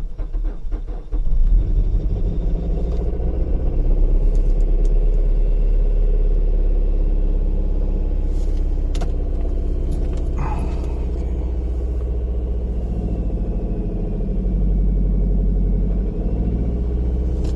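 2006 Mazda 5's four-cylinder engine catching at the end of a cranking attempt in extreme cold (about −41 °C, no block heater), then running steadily at a raised cold idle. Near the end the revs dip as the clutch is let out.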